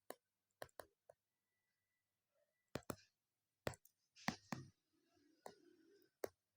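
About a dozen small, sharp clicks at irregular intervals, some in quick pairs, over near silence.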